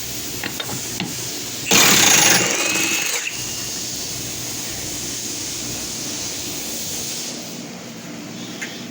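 Impact wrench hammering in one burst of about a second and a half, starting about two seconds in, as it runs out a truck body bolt; a steady hum runs underneath.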